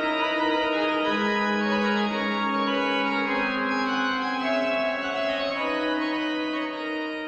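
Pipe organ playing slow, sustained chords, with the notes shifting every second or so and a held lower note under them for several seconds.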